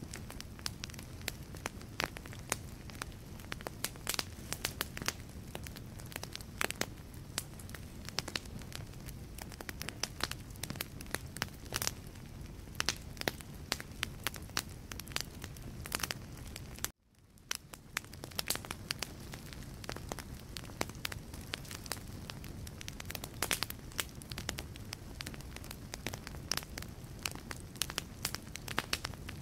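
Wood fire burning in a fireplace: a steady low rumble of flames with frequent irregular sharp crackles and pops from the logs. About seventeen seconds in the sound cuts out abruptly for a moment and fades back in, like an edit splice.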